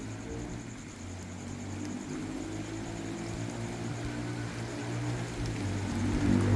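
A low, steady engine drone that grows louder, with a hiss building near the end.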